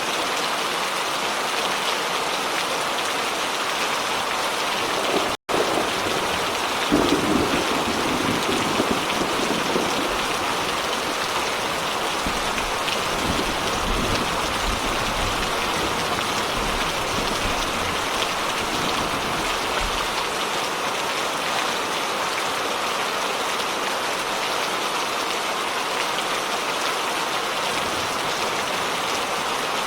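Steady heavy rain, with a long low rumble of thunder rolling in about seven seconds in and fading out around twenty seconds. The sound cuts out for a split second about five seconds in, an audio splice.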